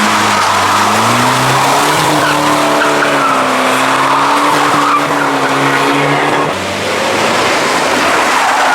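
A car drifting: the engine revs climb in the first second and then hold high while the tyres squeal and skid, the engine dropping away about six and a half seconds in.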